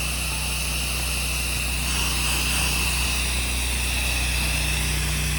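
Pressure washer's engine running steadily under the steady hiss of its water spray, rinsing soap off a house.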